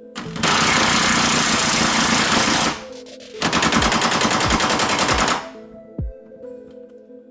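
Impact wrench hammering in two bursts of about two seconds each, the second a fast, even rattle, with background music underneath.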